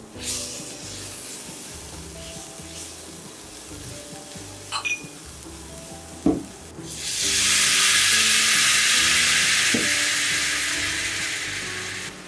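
Sliced onions and garlic frying in oil in a steel pot, stirred with a silicone spatula that knocks against the pot a couple of times. About seven seconds in, cooked lentils poured into the hot oil set off a loud, steady sizzle that slowly eases off.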